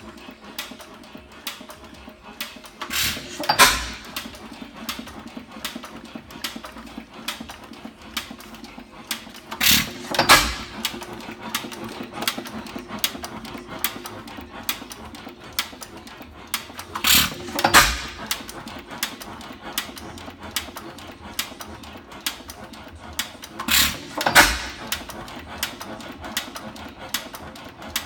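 4 hp Type H Fairbanks Morse hit-and-miss engine running light: it fires a loud double beat four times, about every seven seconds, when the governor lets it take a charge. Between firings it coasts on its flywheels with light clicking.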